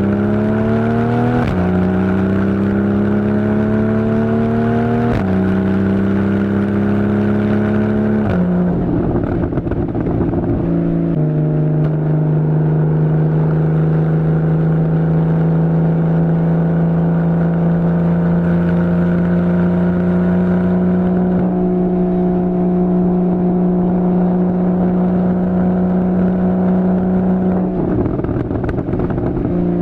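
2015 Porsche Boxster's 2.7-litre flat-six through a Fabspeed Maxflo exhaust, accelerating through quick PDK upshifts: the engine note climbs and drops sharply three times in the first eight seconds. It then holds a long steady note that slowly rises, broken twice by a rough, noisy patch.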